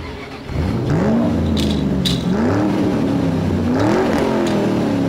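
Car engine sound revving, its pitch rising and falling several times, with a couple of light clicks early in the revving.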